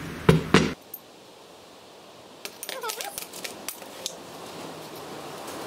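Metal rods from a CNC router kit clinking against each other as they are handled: two sharp clinks about half a second in, then a quieter cluster of clinks and rattles around three seconds in as the rods are laid down on a wooden bench.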